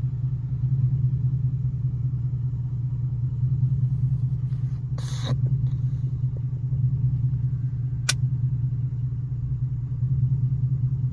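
Ford Mustang GT's 5.0-litre V8 idling steadily, a low hum heard from inside the cabin. A brief rustle comes about five seconds in and a single sharp click about eight seconds in.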